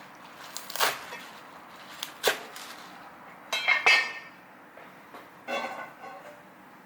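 A few separate knocks of a knife on a cutting board, then two short clusters of ringing clinks from kitchenware, about three and a half and five and a half seconds in.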